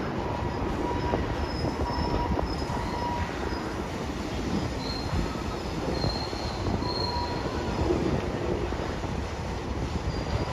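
BNSF diesel locomotive hauling a double-stack container freight train slowly through a curve: a steady rumble of engine and wheels, with faint high-pitched wheel squeal coming and going.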